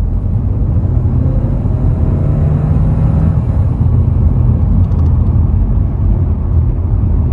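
Audi A4 35 TFSI's 2.0 TFSI four-cylinder engine running while the car is driven, over a steady low road rumble. The engine note rises gently for a couple of seconds about a second in.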